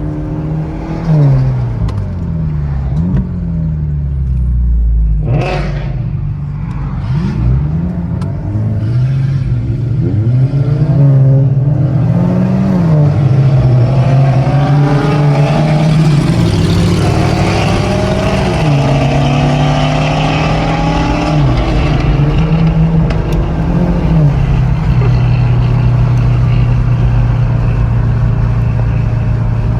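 Car engine accelerating hard through the gears, its pitch climbing and dropping back at each shift, with a short loud rush about five seconds in; for the last few seconds it holds a steady drone.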